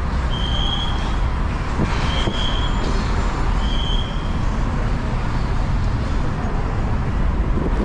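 Steady rumble of road and traffic noise with wind on the microphone of a moving bicycle, with a short high beep repeated four times, about every one and a half seconds, in the first half.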